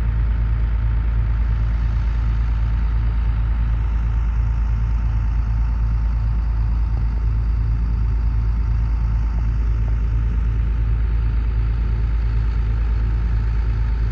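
Old Caterpillar excavator's diesel engine running steadily with a deep, even rumble.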